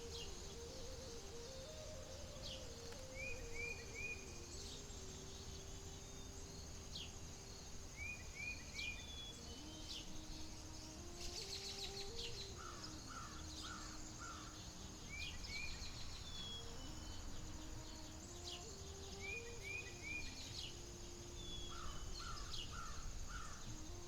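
Outdoor nature ambience: a steady high insect drone, with a bird repeating quick runs of three or four short chirps every few seconds. Underneath are a low rumble and a soft low tone that slowly rises and falls.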